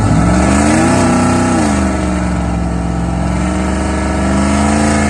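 Turbocharged Chevrolet Silverado V8 at full throttle on a drag-strip pass. The engine pitch climbs, drops at a gear shift about a second and a half in, then climbs steadily again.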